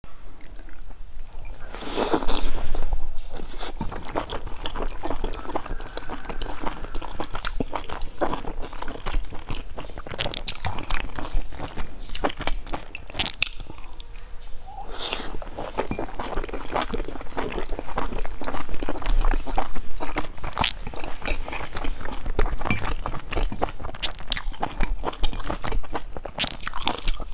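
Close-miked eating of large steamed dumplings: biting into the soft dough and chewing, with many small mouth clicks. The loudest burst comes about two seconds in, with a short lull near the middle.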